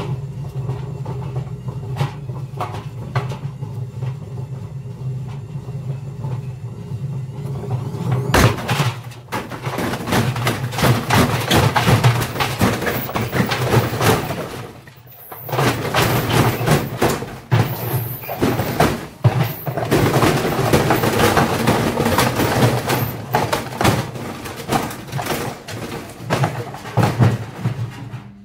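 Indesit washing machine running with heavy bricks inside the drum: a steady low hum under constant knocking and banging, which turns much louder and faster about nine seconds in, eases briefly around fifteen seconds, then goes on.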